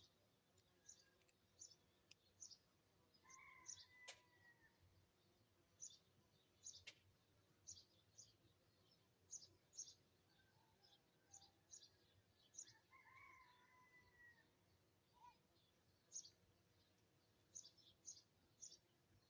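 Small birds chirping: short high chirps come every second or so, with two longer, lower calls, one about three seconds in and one about twelve seconds in. A sharp click is heard about four seconds in, and another near seven seconds.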